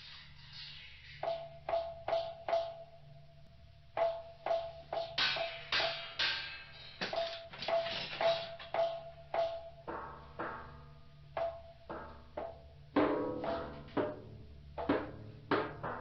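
Percussive sound-collage soundtrack: sharp struck knocks in uneven runs of about two a second, each leaving a short ringing tone, over a steady low hum.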